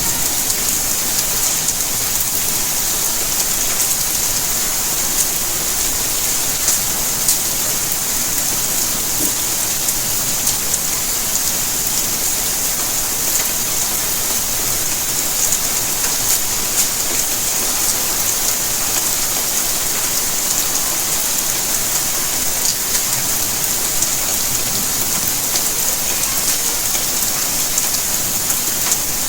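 Steady rainfall, with a constant hiss and many close drops pattering on surfaces.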